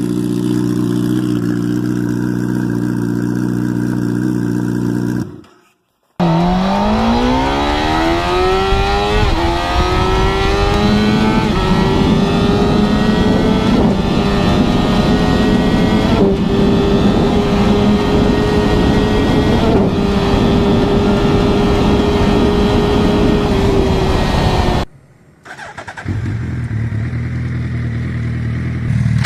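Motorcycle engine sounds in edited clips: a steady engine note, then after a cut a hard acceleration whose pitch climbs quickly and then holds high, with short dips at gear changes, then another cut back to a steady engine note.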